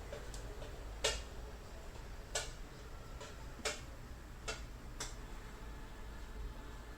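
A few sharp clicks at uneven intervals over a low, steady hum.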